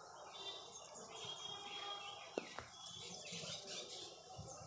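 Faint chirping of small birds: many short, high calls. A single sharp click about halfway through.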